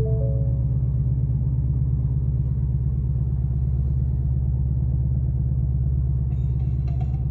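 Ford Mustang GT's 5.0-litre V8 idling steadily, a deep, even exhaust rumble. A short three-note chime sounds right at the start.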